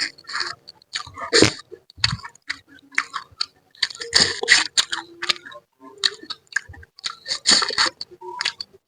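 Close-up eating sounds: wet chewing, slurping and smacking with irregular crunchy clicks as a spicy fish-head curry is eaten by hand with raw vegetables.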